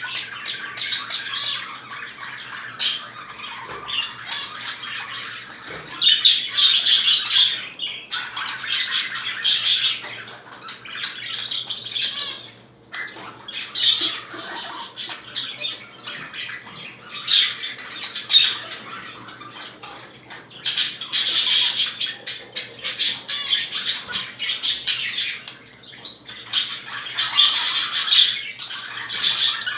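Budgerigars chattering and squawking without pause, with louder bursts of calls every few seconds.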